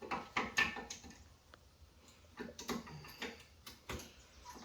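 Irregular small metallic clicks and taps of brake pads and their clips being handled and fitted to the caliper bracket.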